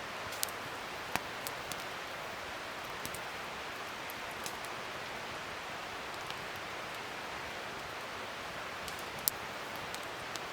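Wood fire burning: a steady hiss with scattered sharp crackles and pops, the loudest about nine seconds in.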